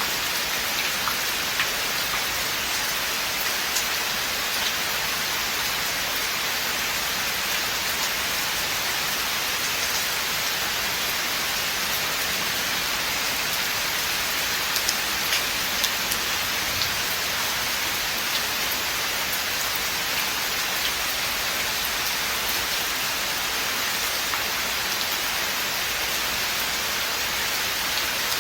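Steady rain falling through a forest, an even hiss with scattered drips of individual drops landing on leaves and surfaces.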